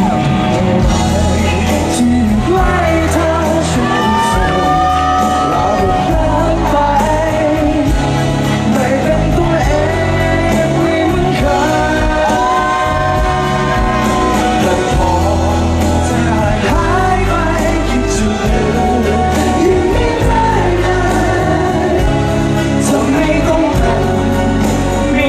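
Live pop music played loud in a large hall: a steady beat and bass under a singing voice, with the audience shouting and whooping along.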